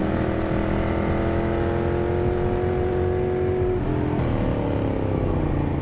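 Motorcycle engine running under steady throttle with road and wind noise. About four seconds in the engine note shifts, then slowly falls in pitch as the bike eases off.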